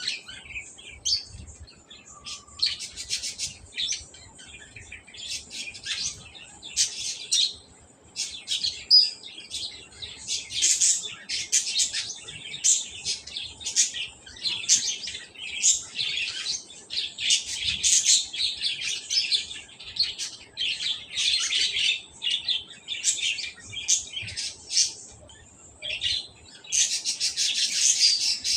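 Small birds chirping and twittering continuously in quick, high, overlapping calls, busier and louder near the end.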